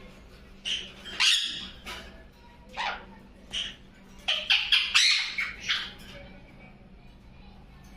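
A parrot squawking in a series of short, harsh calls. It gives a few separate squawks over the first few seconds, then a quick run of calls around the middle, and goes quiet before the end.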